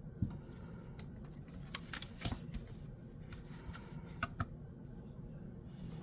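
Light handling of a metal fidget slider, with a few sharp clicks and taps, a close pair of them a little past four seconds in.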